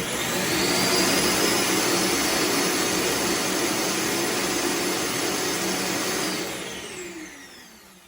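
The self-emptying base of an iRobot Roomba Combo j7+ runs its vacuum to suck the debris out of the docked robot's bin. It spins up with a rising whine, runs loud and steady for about six seconds, then winds down with a falling pitch near the end.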